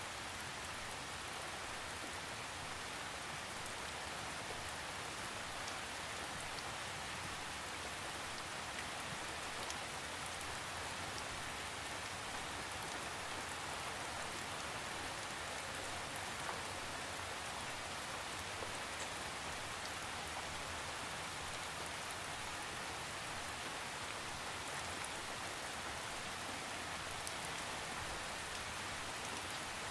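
Steady rain falling on a surface, an even hiss with faint scattered drop ticks and no thunder.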